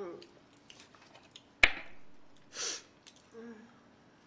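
A single sharp tap of a hard object about a second and a half in, followed about a second later by a short breathy hiss.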